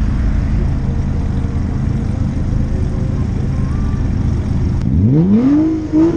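A car engine revving up hard about five seconds in, its pitch climbing quickly and then holding, over a steady low rumble of engines and road. A few sharp clicks come right at the end.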